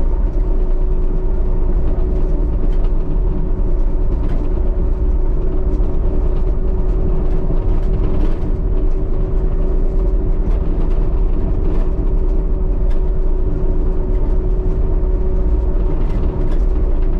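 Diesel excavator engine running steadily as the machine travels on its tracks, heard from inside the cab, with faint scattered clicks and clanks from the machine.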